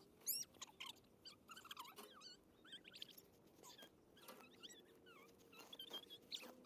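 Faint birdsong: small birds chirping with many short notes that rise and fall in pitch, against a faint steady hum.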